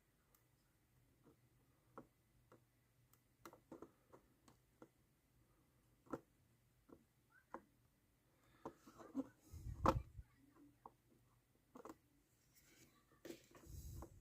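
Faint scattered clicks and taps from hands laying small roofing pieces on a model building at a workbench. A louder rustle with a low bump comes about ten seconds in, and again near the end.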